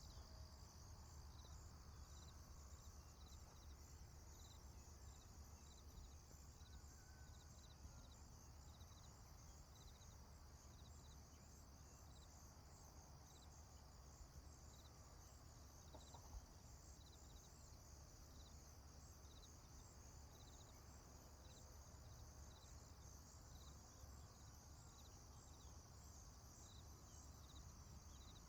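Faint insect chorus of crickets chirping steadily, with short regular chirps about once a second over a low background rumble.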